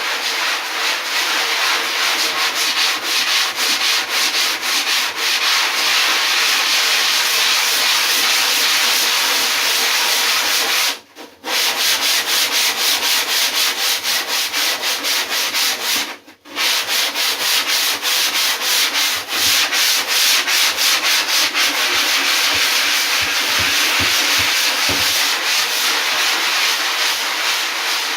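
Sanding the repaired foam of a surfboard: a steady, loud rasping hiss made of rapid strokes, which stops briefly twice, about 11 and 16 seconds in.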